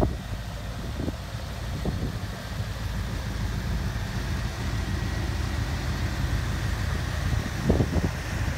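1983 Chevrolet Caprice Classic's V8 engine idling steadily, with a few short knocks, the loudest near the end.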